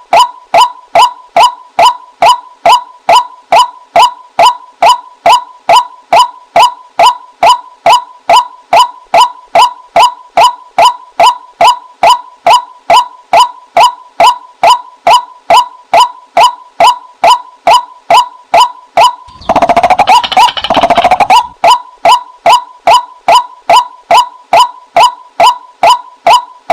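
Female white-breasted waterhen call used as a decoy lure: short calls repeated evenly, about two to three a second. About twenty seconds in there is a louder, busier stretch of about two seconds, then the steady repetition resumes.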